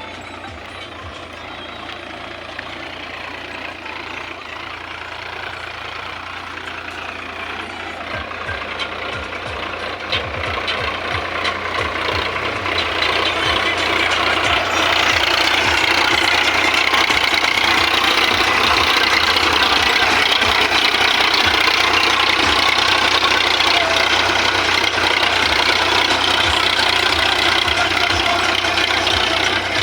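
Sonalika tractor's diesel engine running, growing steadily louder over the first half and then holding at a steady level.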